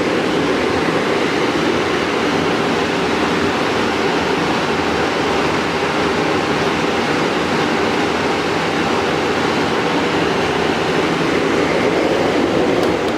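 Denray 7200B downdraft sanding table's blower running, a steady rush of air drawn down through the table into its cartridge filters; the unit is rated at about 74 dB.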